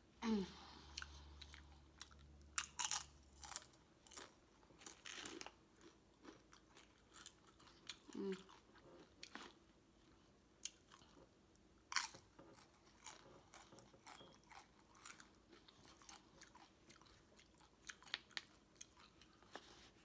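Close-miked chewing and mouth sounds of a person eating, with irregular crunchy clicks and smacks. A brief low hum runs through the first few seconds, and there are two short voiced murmurs, one near the start and one about eight seconds in.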